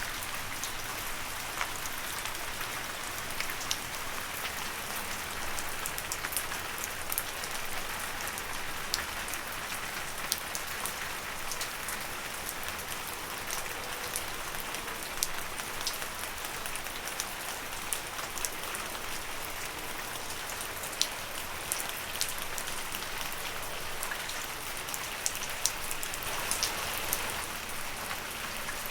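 Steady rain falling on leaves: an even hiss with many sharp drip ticks scattered through it.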